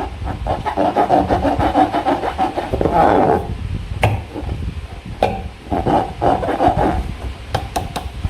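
Hands rubbing and squeezing rubber balloons, the rubber squeaking and crackling in quick irregular strokes. The handling thins out after about three seconds, leaving scattered sharp clicks.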